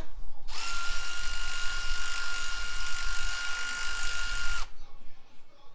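Handheld power tool such as a drill or electric ratchet running at a steady speed with a high whine for about four seconds. It starts about half a second in and stops abruptly near the end.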